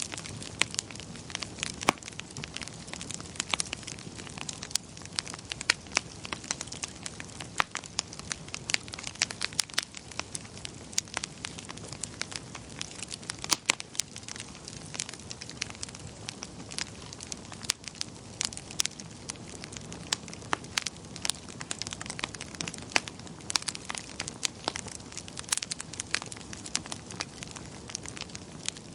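Wood fire in a fireplace crackling and popping, with frequent sharp snaps over a low steady rush of burning.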